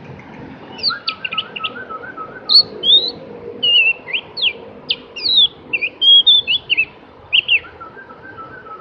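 Javan grey-throated white-eye (opior jawa, cucak gentong) singing: a lively run of quick, high whistled notes that sweep up and down, with a lower trill near the start and again near the end, over a faint steady background hum.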